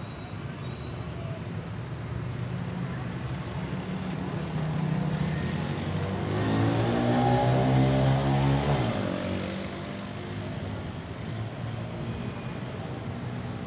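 Carbureted car engine idling, revved up once about six seconds in and held for a few seconds before dropping quickly back to idle.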